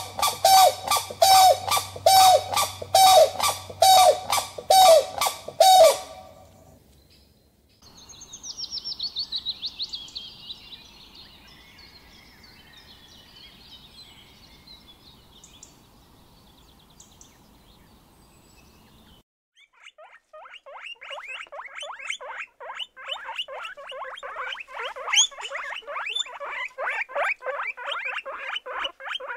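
Animal and bird calls. A string of loud, evenly repeated honking calls, about two a second, stops about six seconds in. Faint high chirping follows, and from about twenty seconds a dense, fast chatter of many calls.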